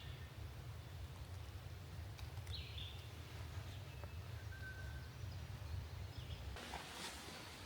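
A few faint, brief bird calls over a low steady rumble, with rustling near the end.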